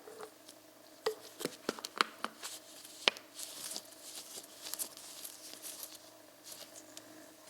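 A string of sharp clicks and light rustling, as of small objects being handled on a bench, over a faint steady hum.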